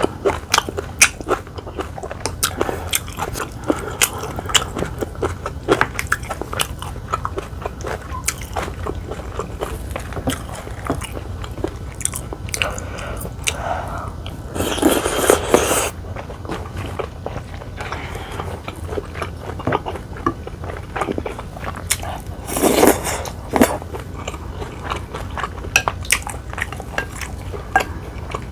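Close-miked eating sounds: a person biting and chewing food, with many small crunchy, wet mouth clicks. Two louder, longer stretches of noise stand out, about halfway through and again about 23 seconds in.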